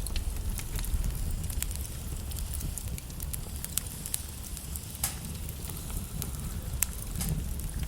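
Wood fire burning in a fireplace: a steady low rumble and hiss of flames, with irregular sharp crackles and pops from the logs.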